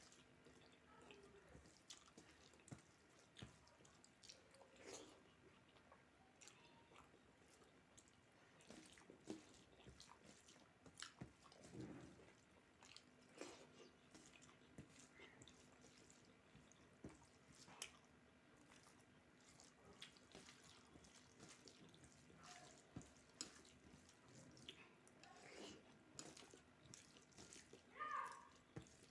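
Faint, scattered wet mouth sounds and soft clicks of someone chewing a meal of rice and dal close to the microphone.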